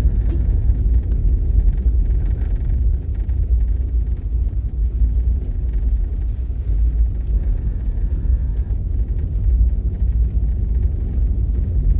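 Steady low rumble, without a break, much stronger in the deep bass than higher up.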